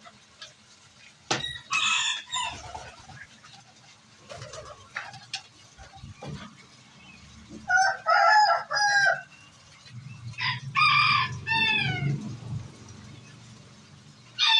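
Rooster crowing over and over, about four crows a few seconds apart, each a loud call of about a second that falls in pitch at the end.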